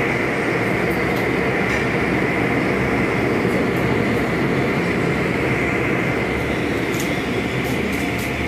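Car wash tunnel's air dryer blowers running, a loud, steady rush of air over a low hum.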